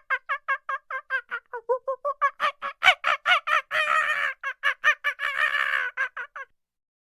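A rapid series of pitched bird calls, about six a second, growing louder partway through, with two stretches where the calls run together, stopping about six and a half seconds in.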